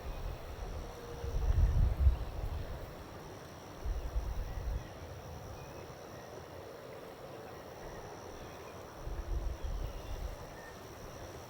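Wind buffeting the microphone in irregular low gusts, three times, over faint outdoor background noise.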